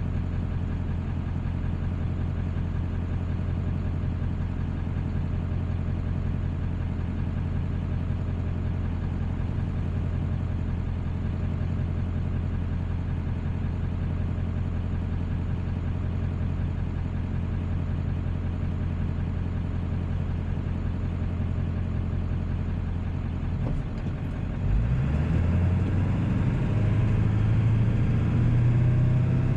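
1997 Ford 7.3 L Power Stroke turbo-diesel V8 running steadily at low revs. About 25 seconds in it gets louder and its pitch climbs as the truck accelerates.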